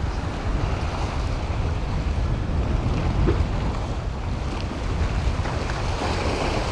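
Wind buffeting the microphone over steady surf washing in, a continuous rushing noise with a heavy low rumble.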